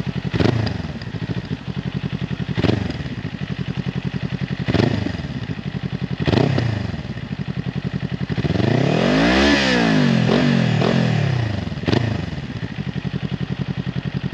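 2021 Kawasaki Ninja 400's parallel-twin engine through an Akrapovic carbon slip-on exhaust with the baffle in, heard from about 20 feet: idling, blipped four times in short revs, then held up for a longer rev about eight seconds in that rises and falls, and blipped once more near the end.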